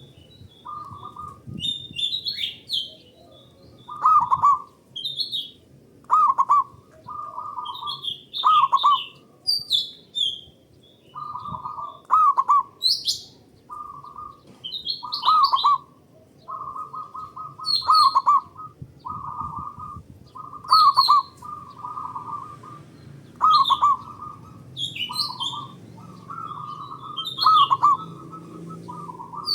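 Zebra doves (perkutut) cooing and answering one another in short, repeated rolling phrases, one every second or two. Higher, thin chirps from other small birds are mixed in among the coos.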